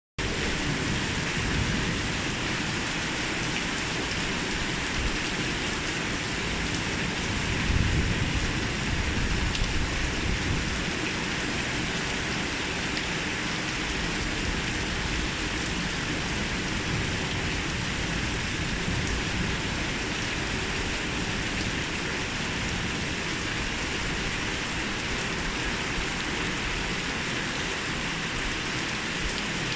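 Heavy rain falling steadily in a constant hiss, with a brief louder low rumble about eight seconds in.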